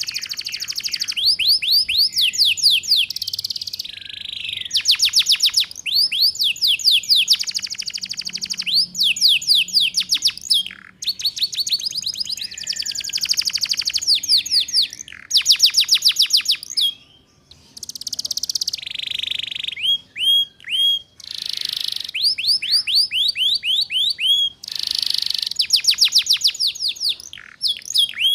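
Domestic canary singing fast trilled phrases of the 'ngeriwik' type, each phrase a rapid run of high down-slurred notes, with brief pauses between phrases.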